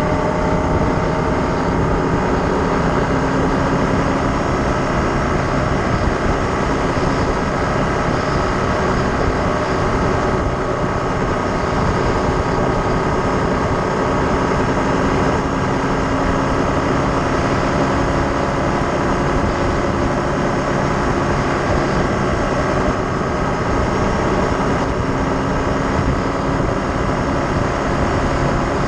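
A vehicle engine running steadily, with its pitch drifting slowly and a heavy rush of road and wind noise.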